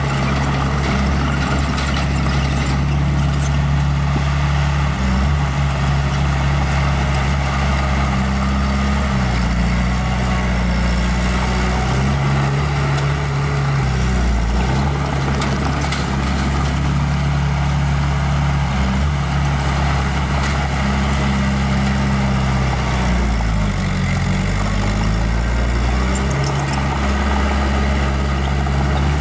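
Small old bulldozer's diesel engine running under load, its pitch shifting as it works, with a noisy clatter over it; once, late on, the engine pitch dips and comes back up.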